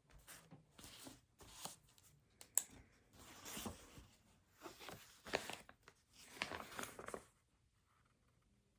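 Rustling, crinkling handling noises in a series of irregular bursts, with one sharp click about two and a half seconds in, stopping about seven seconds in.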